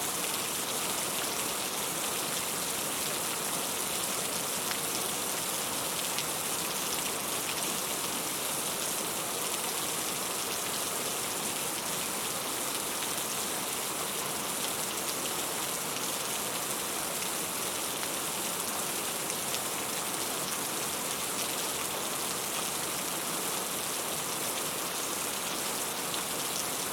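Heavy rain falling steadily: a dense, even hiss of rain on surfaces, flecked with the ticks of single drops.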